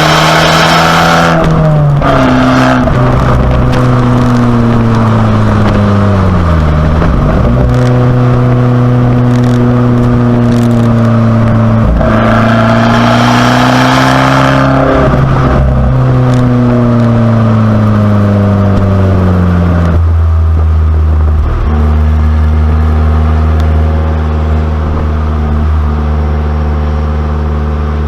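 Abarth 595C Competizione's turbocharged 1.4-litre four-cylinder through its Record Monza exhaust, running loud. The revs drop sharply about a second in, fall away, climb again under throttle, fall off once more, then hold steady for the last third.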